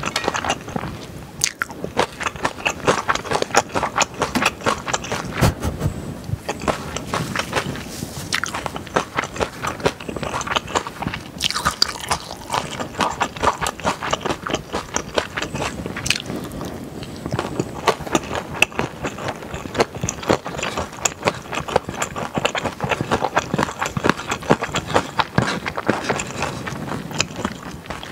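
Close-miked chewing of spicy yakisoba with thick Chinese glass noodles and beef brisket: wet mouth sounds and many quick irregular clicks, with a fork now and then scraping the bowl.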